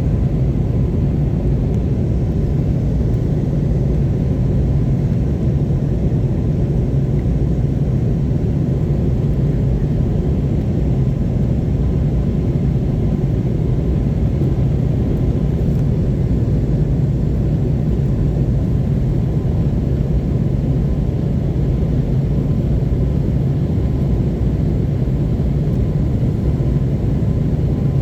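Airbus A321neo heard from inside the passenger cabin shortly after takeoff: a steady, even drone of engines and airflow, with a low rumble and a faint constant hum.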